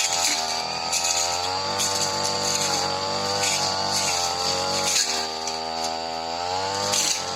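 Supra SPR328 two-stroke brush cutter running at high revs. Its engine note dips and climbs back several times as it cuts through tall, dense grass, with a steady high whine over it.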